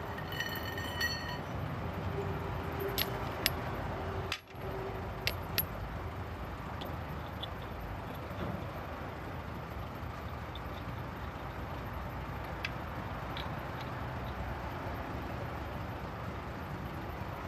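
Steady vehicle and road noise with a few sharp clicks scattered through it, and a brief ringing tone in the first second.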